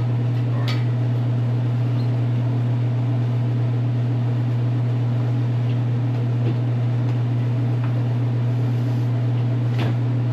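Steady low machine hum, unchanging throughout, with a few faint clicks, one just under a second in and another near the end.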